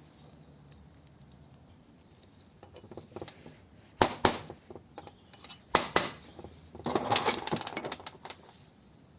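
Sharp metallic taps and clinks: small plugs being tapped back into a carburettor metering plate. The taps start after about three seconds of quiet, with two hard strikes about four seconds in, two more near six seconds and a quick cluster around seven seconds.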